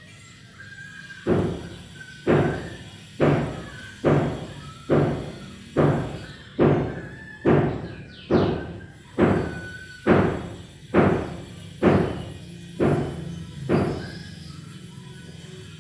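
A regular series of about fifteen sharp thumps, a little under one a second, each dying away quickly, with a brief lovebird chirp about halfway through.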